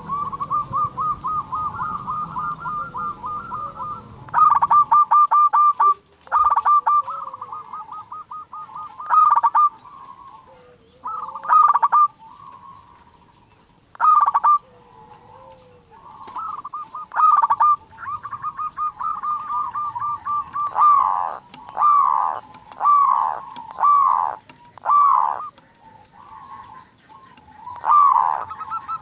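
Zebra doves (perkutut) singing and answering one another: rapid runs of soft staccato cooing notes at about one pitch, broken by louder bursts. Past the middle comes a run of five louder falling calls about a second apart, and a lower sliding call is heard now and then.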